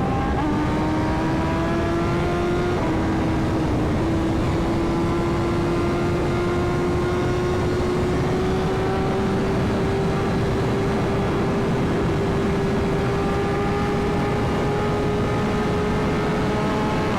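BMW S1000RR sportbike's inline-four engine running at highway speed, its pitch climbing slowly as the bike gently gains speed, with two brief dips about three and four seconds in. Heavy wind rush over the microphone runs under it.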